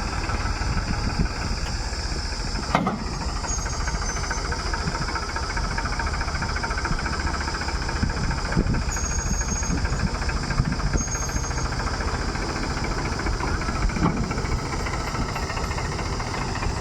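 Diesel engine of a JCB backhoe loader running steadily while it works, with a few sharp clunks spread through and several faint, brief high-pitched squeaks.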